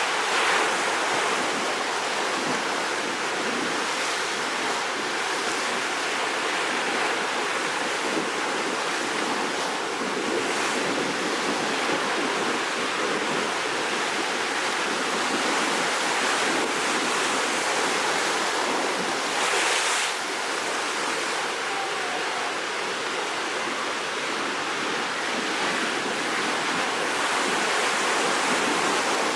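Rough sea surf before a typhoon: waves washing and breaking in a steady rush of water, with a few louder surges now and then.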